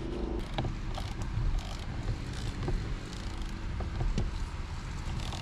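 Hands working on a car's steering wheel and interior trim: scattered light clicks and knocks over a low rumble.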